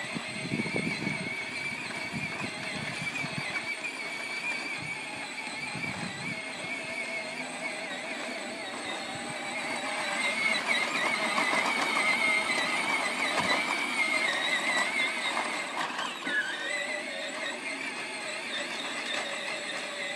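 Battery-powered ride-on toy tractor's electric motors and gearbox whining steadily as it drives, the pitch wavering slightly. It gets louder in the middle, and the whine drops in pitch about three-quarters of the way through.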